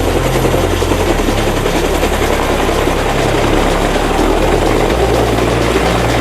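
Loud, steady aircraft engine and propeller noise, with a low hum under it that shifts a little in pitch.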